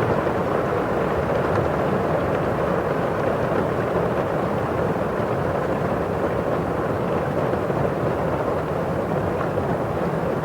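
Steady rain falling on a window pane and outside, a dense, even, dull hiss with no single drops standing out.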